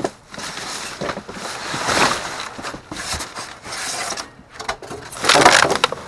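Rummaging through trash inside a dumpster: irregular bursts of rustling, crinkling and shuffling as bags, boxes and goods are moved, the loudest about five seconds in.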